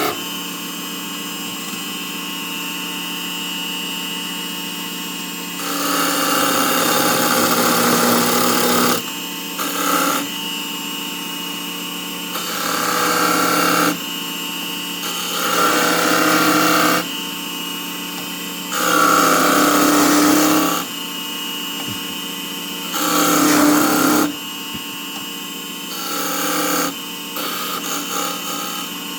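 Small benchtop wood lathe running steadily, with a turning tool cutting the spinning wood in repeated passes of one to three seconds that give louder, rougher spells over the motor's hum.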